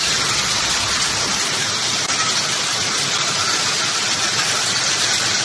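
Hailstorm: hail and rain coming down hard, a dense, steady hiss of countless impacts.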